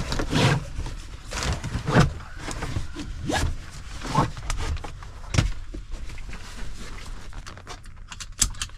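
Truck-cab seat belts being pulled out and wrapped around the door handles: webbing sliding and rustling, with irregular clicks and knocks of the buckle metal against the door.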